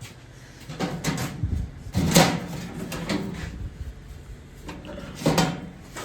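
A few irregular knocks and clunks, like hard objects being handled or set down, the loudest about two seconds in and another a little after five seconds.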